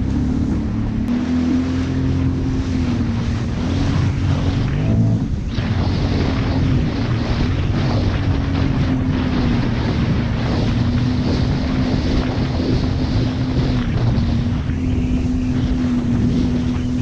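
Jet ski engine running at a steady high speed, its pitch dipping briefly a couple of times, over the rush of water against the hull and wind buffeting the microphone.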